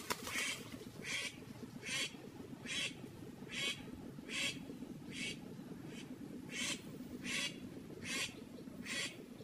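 A bird's short, harsh call repeated at an even pace, about one call every three-quarters of a second, over a steady low background rumble.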